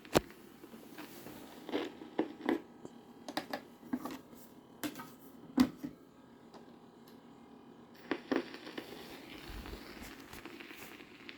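Surface noise of a worn old record between tracks: a faint hiss with irregular clicks and pops scattered throughout, the loudest right at the start and about five and a half seconds in.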